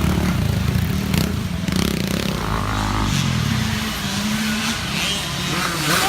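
Small youth dirt bike engines running, their pitch rising and falling as the riders work the throttle.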